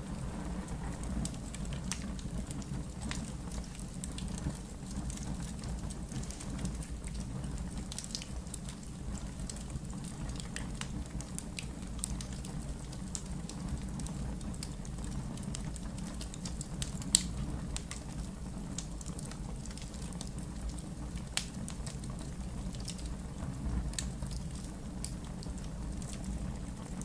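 Wood fire burning in a fireplace: a steady low rumble of flames with scattered crackles and sharp pops from the burning logs, the loudest pop about seventeen seconds in and another about twenty-one seconds in.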